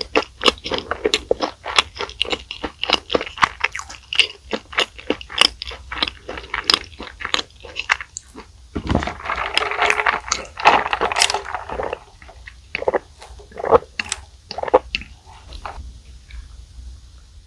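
Close-up chewing of crunchy food, a fast run of crisp crunches at first, then a denser, noisier stretch partway through, and slower, sparser chewing toward the end.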